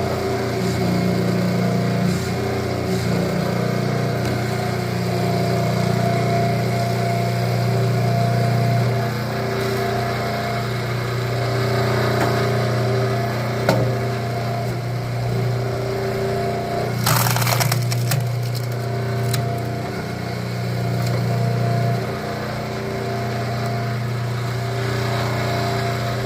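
Engine-powered log splitter running steadily while it splits firewood, with a burst of cracking and splintering wood about seventeen seconds in as a log gives way.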